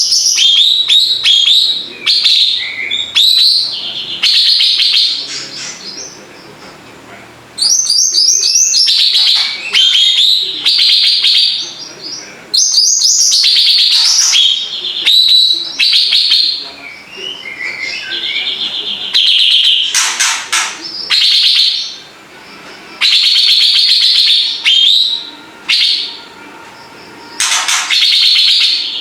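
Cucak ranting songbird singing loudly and continuously: bursts of rapid trills and warbled phrases, each a second or two long, with short pauses between them.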